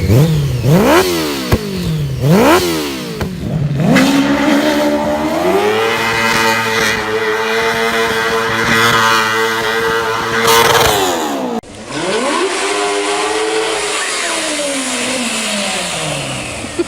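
Go-kart's motorcycle engine revved in three or four quick blips, then pulled up to high revs and held for several seconds before the revs drop. After an abrupt cut about two-thirds through, a motorcycle engine runs on with its revs falling and rising.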